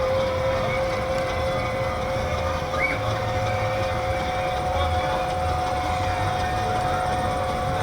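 Showman's steam engine driving its dynamo: a steady whine over the engine's uneven low beat. The whine steps up in pitch about half a second in. By the sound of it the dynamo is on light load, powering only the lights.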